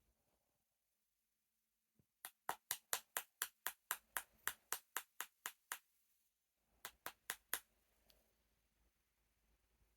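Cockatiel drumming its beak on a cup: a quick run of about fifteen sharp taps, about four a second, then after a pause a shorter burst of four taps.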